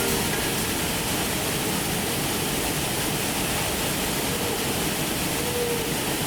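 Waterfall pouring: a steady, even rush of falling water and spray.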